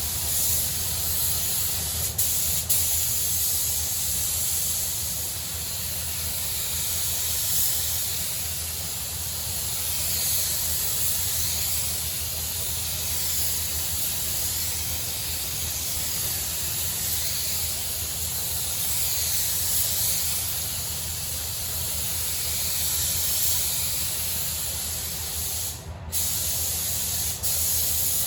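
Air spray gun hissing steadily as a third coat of paint goes onto a car body panel. The hiss swells and fades with each pass and cuts out briefly about 26 seconds in. A steady low hum runs underneath.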